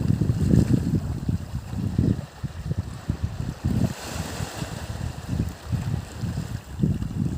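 Wind buffeting the microphone in irregular, low rumbling gusts.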